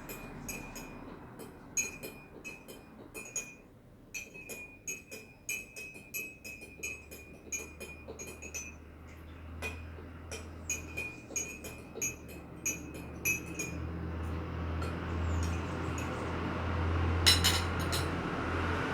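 A metal teaspoon clinks against the cup as honey is stirred into hot tea, at about two to three clinks a second. The clinking thins out after about fourteen seconds, and there is one sharper clink near the end.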